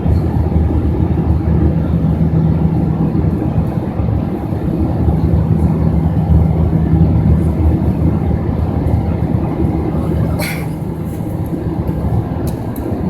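Steady low drone of an Airbus A320's jet engines and airflow heard inside the passenger cabin in flight, with a brief click about ten seconds in.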